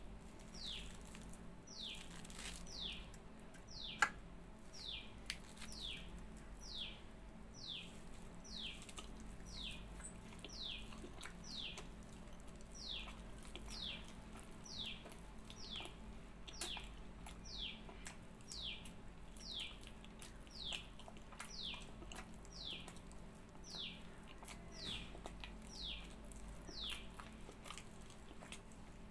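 A bird chirping steadily: one short high note falling in pitch, repeated about every half second, over a low steady hum. One sharp click about four seconds in.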